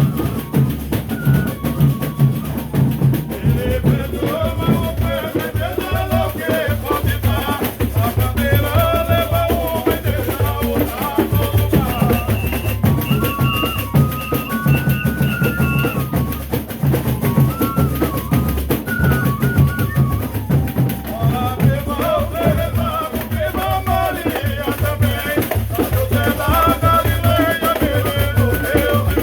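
Folia de Reis ensemble playing and singing a devotional song, with drums and percussion keeping a steady beat under the melody.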